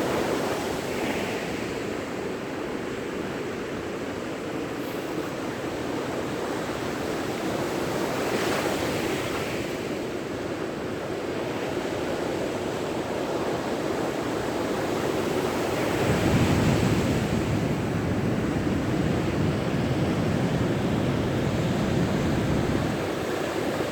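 Sea surf breaking on a beach: a continuous wash of waves that swells as breakers come in, about three times. From about two-thirds of the way through, a low rumble of wind on the microphone joins it.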